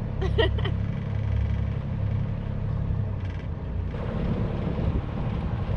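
Sailing catamaran's engine running steadily under way, a low drone; about four seconds in a rougher rushing noise takes over.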